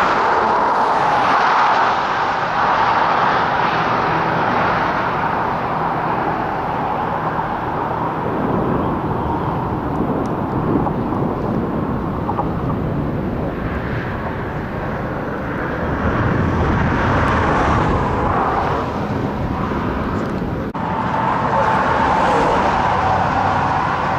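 Steady rushing and rumbling of a moving vehicle, heard from inside as it travels, with a brief break about three-quarters of the way through.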